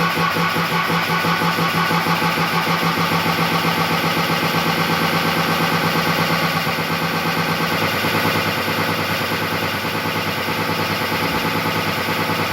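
A steady engine-like running sound with a fast, even pulse.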